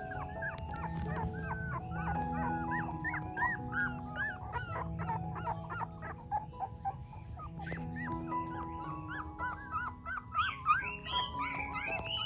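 Newborn puppies whimpering and squealing in many short, high, rising-and-falling cries, several a second, over soft background music with long held notes.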